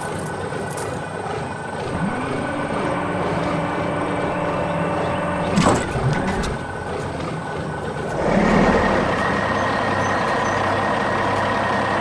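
A heavy vehicle running, with a sharp click about halfway through and a louder, rougher noise setting in about eight seconds in.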